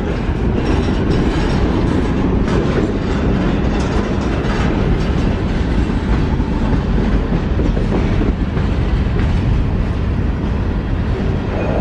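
Freight train of covered hopper cars rolling past at close range: a steady rumble of steel wheels on the rails, with the clickety-clack of wheels over the rail joints.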